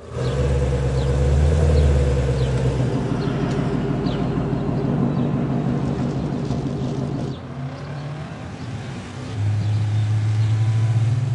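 A car engine running steadily, its low note shifting lower about three seconds in, falling away around seven seconds in and coming back strongly a couple of seconds later.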